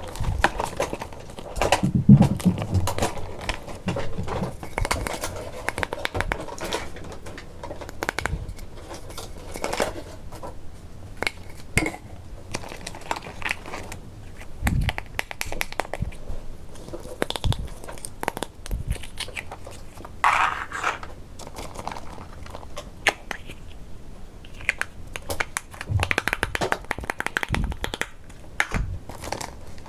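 Small plastic toy kitchen pieces being handled and unpacked: irregular clicks and taps of hard plastic mixed with crinkling of packaging.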